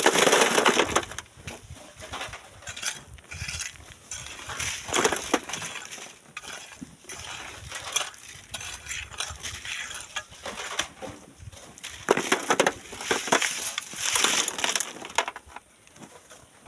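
Sand and stones crunching and clattering in irregular bursts, loudest right at the start and again in a cluster near the end.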